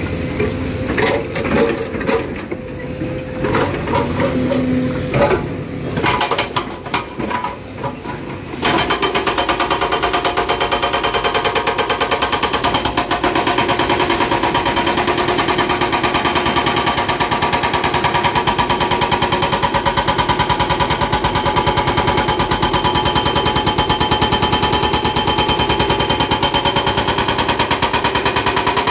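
Excavator-mounted hydraulic rock breaker on hard rock: for the first several seconds the excavator's engine runs with irregular knocks and clanks, then about nine seconds in the breaker starts a rapid, steady hammering that keeps going.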